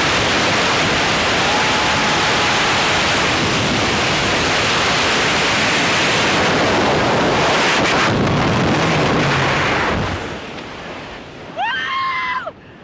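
Freefall wind rushing over the microphone in a loud, steady hiss. About ten seconds in it falls away sharply as the parachute opens, and near the end a short, high voice cries out.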